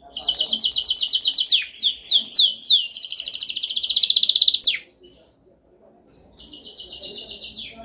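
Domestic canary singing: fast rolling trills, then a few downward-slurred notes, then a quicker trill that stops abruptly about five seconds in. After a pause of about a second, a softer trill starts again near the end.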